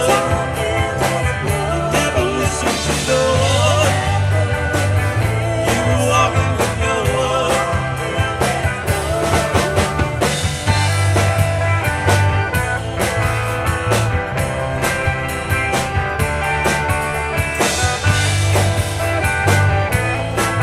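Live rock band playing: drum kit keeping a steady beat under a bass line, with guitars and keyboards carrying a wavering melodic line.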